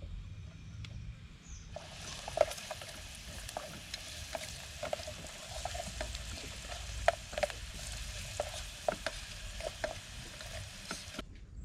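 Food frying in hot oil, a steady sizzle with sharp crackles and pops. It starts abruptly about two seconds in and cuts off just as abruptly near the end.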